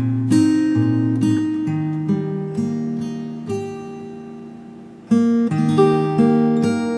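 Acoustic guitar playing slow, relaxing plucked chords. The notes ring and fade away into a pause, then a new chord is struck about five seconds in and the playing picks up again.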